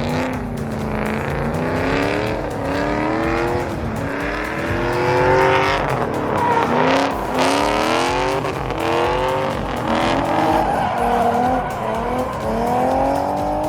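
Car engine revving hard in repeated rising sweeps, with tires squealing as the car is driven sideways.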